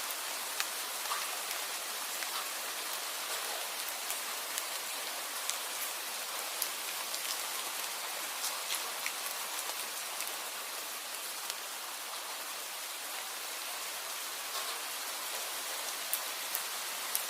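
Steady rain falling, an even hiss with many scattered sharp ticks of individual drops striking a surface.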